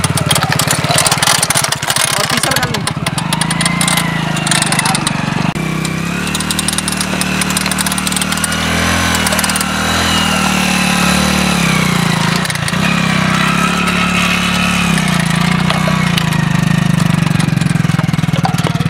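Small motorcycle engine running at low revs, rising and falling as the bike rolls slowly on a nail-spiked tyre over a plank studded with nails. A rattle of sharp clicks sounds over the engine in the first few seconds.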